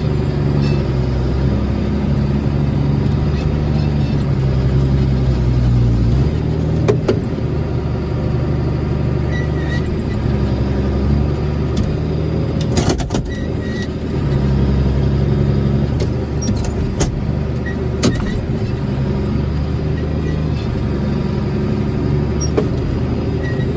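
Farm machine engine running steadily under load, its pitch dropping and rising as the load changes, with occasional sharp knocks and clanks, a cluster of them about halfway through.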